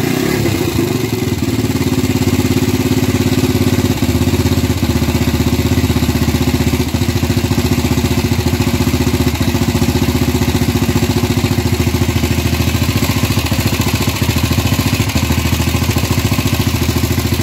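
Gilera 150 Super Sport single-cylinder four-stroke engine, fitted with a Honda AX100 carburettor, idling steadily at its first start. It sounds retarded, because the ignition points plate is set almost fully retarded.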